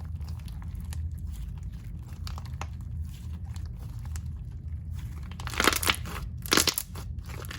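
Thick, creamy slime being pressed and stretched by hand, with faint scattered clicks of small air bubbles. Louder runs of crackling bubble pops come twice near the end.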